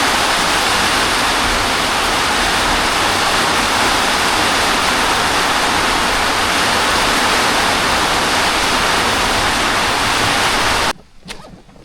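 Heavy rain pouring down in a loud, steady hiss that cuts off suddenly near the end.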